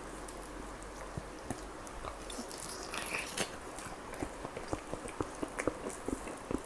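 Close-miked chewing and biting of chicken kalmi kebab, with moist mouth clicks and smacks that come thicker and louder in the second half. There is a brief hiss about three seconds in.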